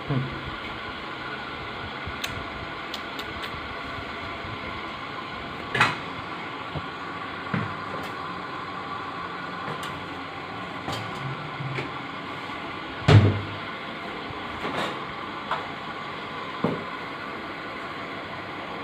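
Several short knocks and clunks over a steady hum, the loudest about 6 seconds and 13 seconds in.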